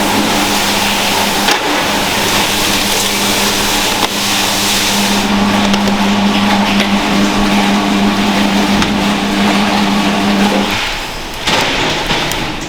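A machine running with a steady hum over a loud hiss, cutting off near the end.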